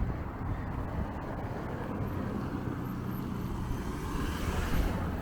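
Street traffic heard from a moving bicycle: a low steady rumble of road and wind noise, with a motor vehicle's engine running close by. The vehicle gets louder toward the end as it passes.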